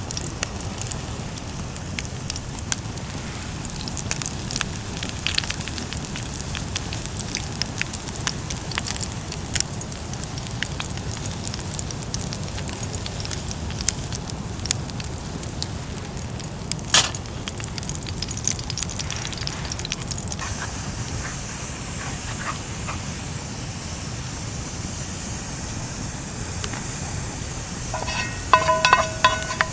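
Wood campfire crackling with scattered small pops and one sharp crack about halfway through. Near the end come a few short ringing metallic clinks.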